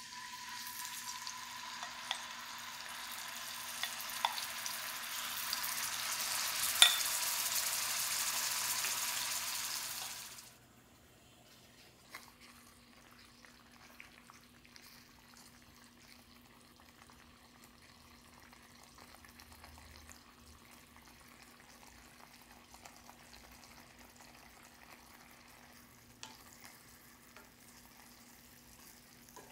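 Marinated chicken hitting hot ghee in a cast-iron skillet and sizzling, the sizzle growing louder over about ten seconds, with a few sharp clicks of a wooden spoon against the pan. About ten seconds in it cuts off abruptly, leaving only a faint sizzle and occasional clicks as the chicken is stirred.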